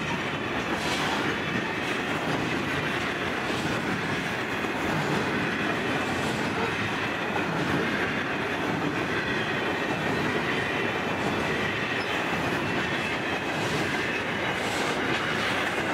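Loaded grain hopper wagons of a freight train rolling past: a steady rumble of steel wheels on the rails with occasional clicks.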